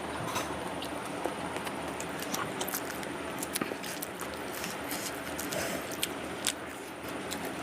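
Close-miked chewing of a vada pav: irregular wet mouth clicks and smacks over a steady background hiss.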